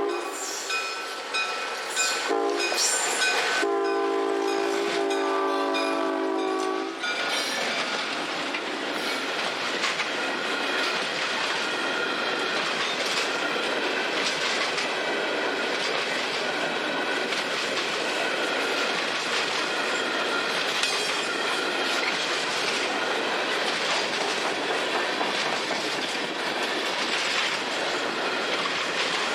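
Diesel locomotive's air horn sounds a chord in a few blasts, the last a long one ending about seven seconds in. A passing train's wheels then clatter steadily over the rails, with a faint squeal.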